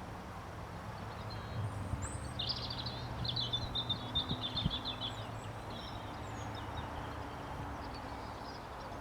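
A small songbird singing a quick chattering phrase about two and a half seconds in, with a few fainter chirps later, over a steady low hum of outdoor background noise.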